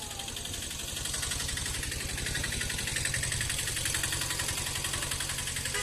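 An engine running steadily with a fast, even putter, getting a little louder about a second in.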